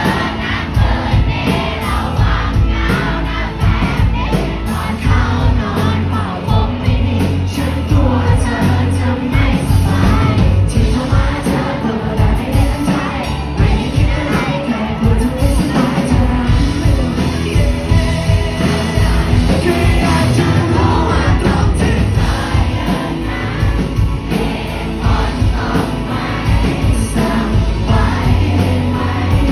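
A live band plays a Thai pop-rock song, with a lead vocal and a heavy bass line; crowd voices singing and shouting along are mixed in.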